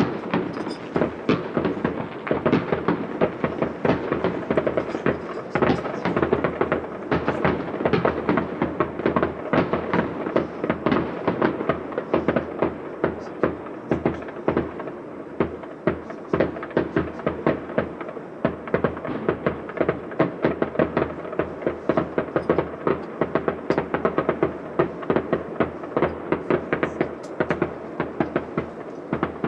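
Fireworks display going off densely: a continuous barrage of sharp bangs and crackling, several reports a second, with no let-up.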